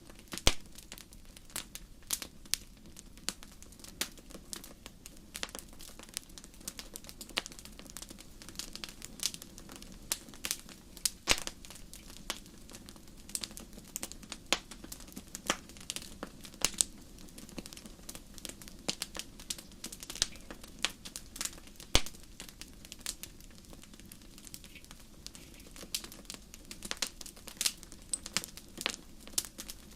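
Fire crackling in a fireplace: frequent irregular sharp pops and snaps, some much louder than others, over a steady low hiss of the flames.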